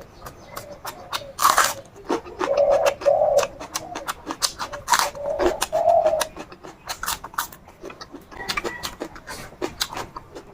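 Close-up eating sounds: wet chewing and lip smacking, with a few louder bites, broken by a few short low tones.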